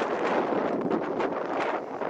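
Strong, gusty hurricane wind buffeting the microphone, a rough rushing noise that swells and eases.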